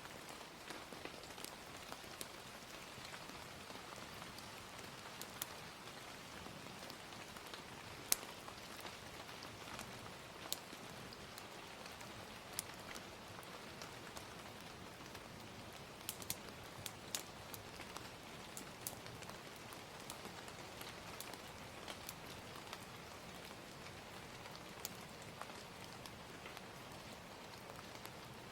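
Gentle, steady rain ambience with scattered sharp pops and crackles of a wood fire, the loudest pop about eight seconds in.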